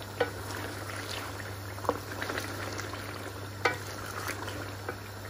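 Chicken and potato curry sizzling in an aluminium pot at the bhuna stage, fried down on a low flame while a wooden spoon stirs it. A few sharp knocks of the spoon against the pan, the loudest past the middle.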